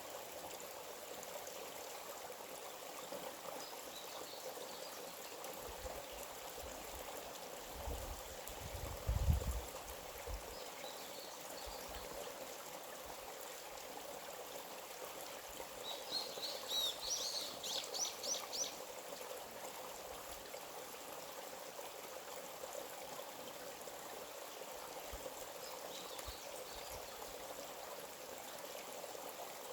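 Small forest stream flowing steadily. A bird sings one short run of quick high notes about halfway through, with a few faint bird calls around it, and there is a brief low rumble about eight seconds in.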